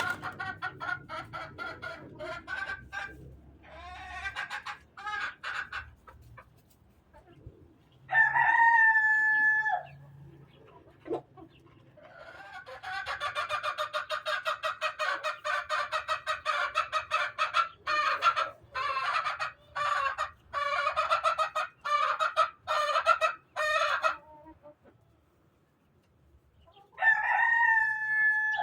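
Chickens: a rooster crowing twice, once about 8 seconds in and again near the end, with long runs of rapid clucking in between.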